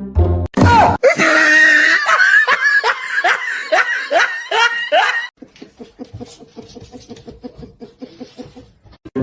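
A person laughing hard, a run of loud ha-ha's each sliding down in pitch, dying away about halfway through into quieter, rapid, breathy laughter.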